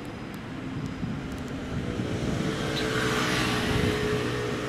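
Electric passenger train running past on the tracks below, its rumble and rail noise getting louder about two seconds in, with a steady whine from about halfway.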